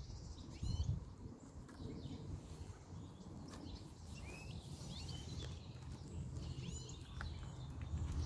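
Small songbirds chirping repeatedly in the background, short bent calls coming every second or so, over a steady low rumble on the microphone.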